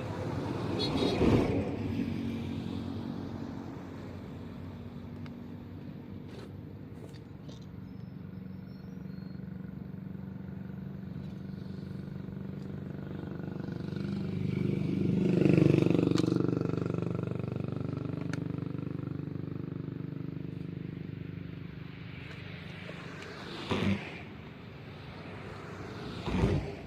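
Motor vehicle engines running and passing by: a steady engine hum that swells about a second in and again in the middle, with two short louder sounds near the end.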